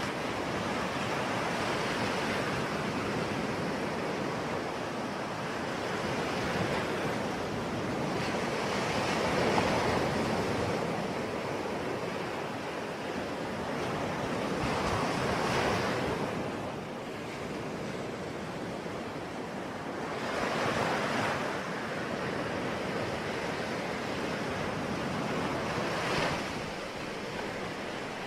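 Ocean waves breaking and washing on a shore, a steady rush of surf that swells as a wave breaks about every five to six seconds.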